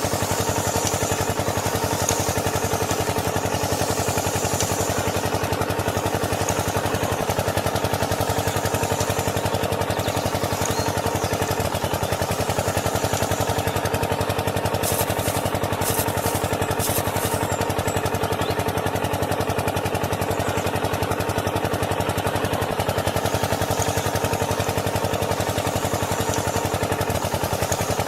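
A small engine running steadily at an even idle, with a few faint clicks about halfway through.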